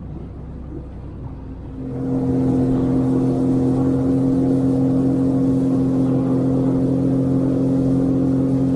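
Sea-Doo GTI 130 jet ski engine picking up speed about two seconds in, then running at a steady high pitch with a rush of wind and water.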